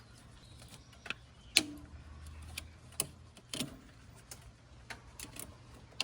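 Irregular sharp clicks and light knocks of hand tools and parts being handled during scooter repair work, the loudest about a second and a half in, over a faint low hum.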